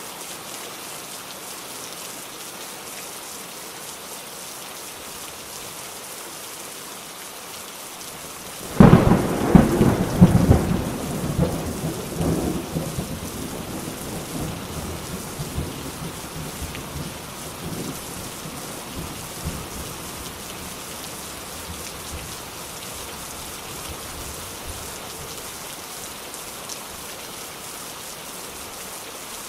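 Steady rain falling, with a sudden clap of thunder about nine seconds in. The thunder cracks a few times, then rumbles and fades away over the next several seconds, leaving only the rain.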